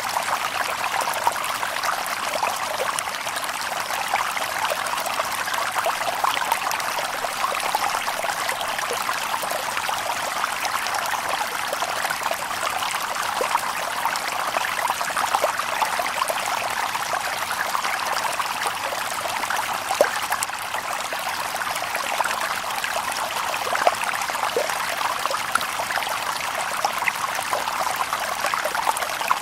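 Shallow stream babbling and trickling over stones, a steady water noise full of small splashes and droplets.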